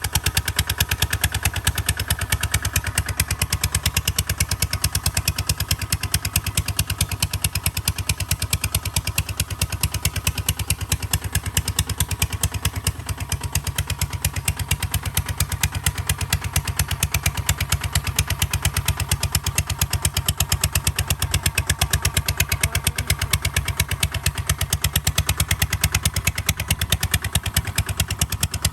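Kubota ZT155 DI single-cylinder diesel engine running steadily with a rapid, even firing beat. Its low drone shifts slightly about halfway through.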